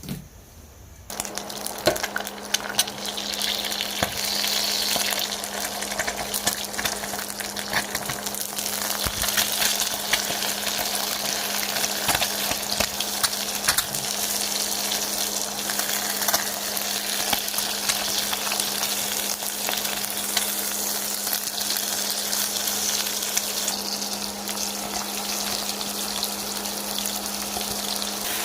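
A machine switches on about a second in: a steady low motor hum under a loud, crackling hiss that runs on unchanged.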